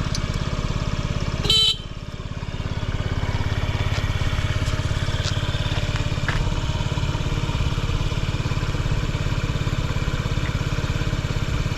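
Honda Zoomer (AF58) scooter's carbureted 49cc four-stroke single idling steadily, with no abnormal noise. The scooter's horn gives one short beep about one and a half seconds in.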